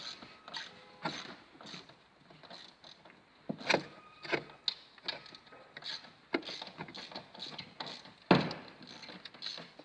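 Irregular metallic clinks and knocks of tools and car parts being handled during assembly, with a sharp knock about 8 seconds in.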